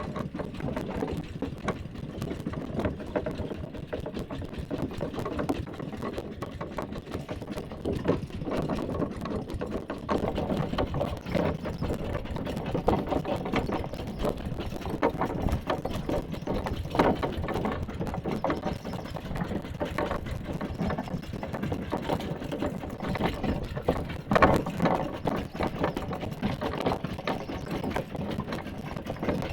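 Mini tractor's small engine running steadily as it drives, with a fast, even chatter and occasional louder knocks and rattles, the loudest about 24 seconds in.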